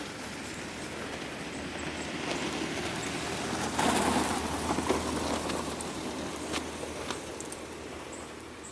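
A military truck drives past. Its sound swells to its loudest about four seconds in, then fades away.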